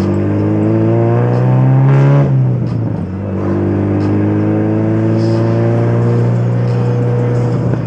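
Turbocharged Honda B18C four-cylinder in a Civic hatchback, with a straight-through exhaust and no muffler, accelerating: the revs climb, fall at a gearshift about two seconds in, then climb again more slowly.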